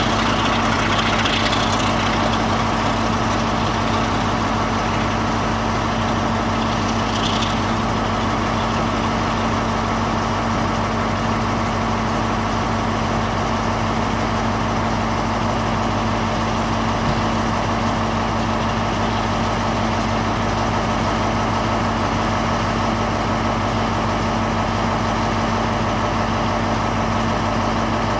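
Diesel locomotive engine idling steadily, a constant heavy drone that does not change in pitch or level.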